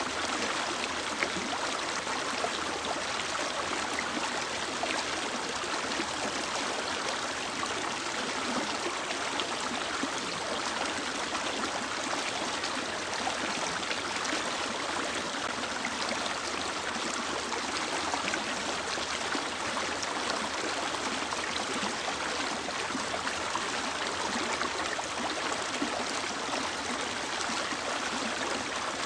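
A mountain river running steadily over rocks: a constant rush of flowing water with fine splashing and gurgling.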